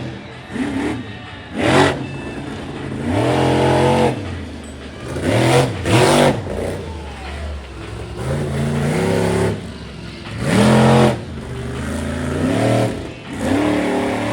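Monster truck engine revving in repeated hard bursts, its pitch climbing and dropping about six times between lower, steadier running.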